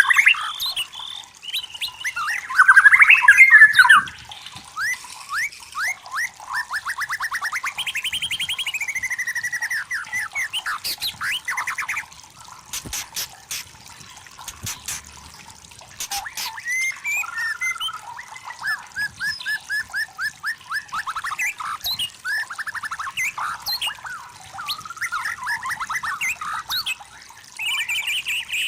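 White-rumped shama singing a varied song of clear whistles and fast repeated note series, loudest about three seconds in. A pause in the middle holds only a few sharp clicks.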